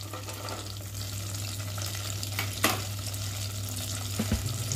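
Chopped cashews, almonds and raisins sizzling as they fry in hot ghee in a steel pot, with one sharp clink about two and a half seconds in.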